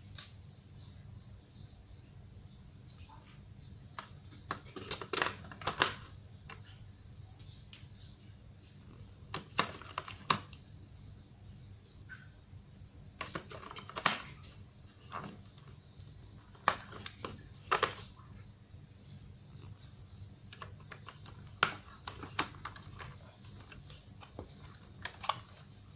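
Scattered sharp clicks and clacks of small plastic toys being handled, coming in short clusters every few seconds over a faint steady hum.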